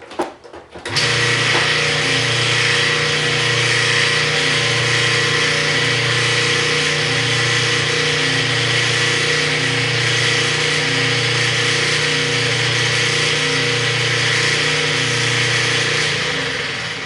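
Washing machine running with a loud, steady grinding noise that pulses about once a second, starting about a second in and dying away near the end. The grinding goes with a washer that will not agitate or spin.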